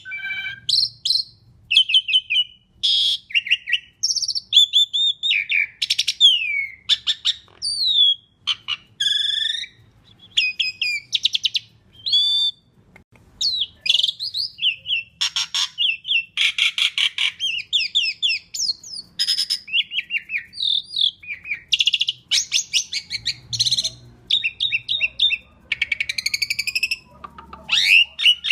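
Asian pied starling (jalak suren) in full, varied song: a fast, continuous string of whistled glides, clicky trills and buzzy rattles, with short pauses between phrases.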